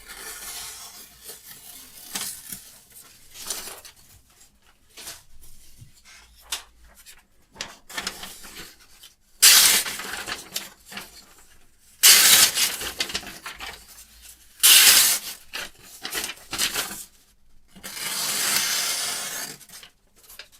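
A knife blade scraping in strokes, either against a sharpening stone or slicing through a test material such as paper: several short, quiet strokes, then four louder, longer strokes in the second half.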